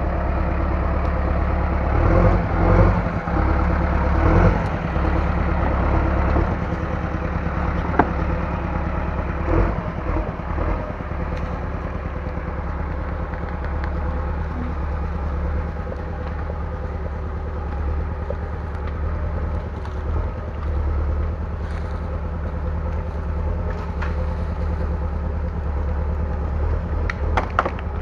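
Bulldozer engine running steadily, with a few sharp cracks and clanks, one about a third of the way in and several close together near the end.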